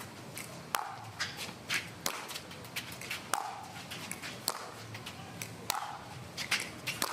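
A pickleball rally: paddles striking the hard plastic ball with sharp pops about every second and a bit, with footsteps and smaller ticks between the hits.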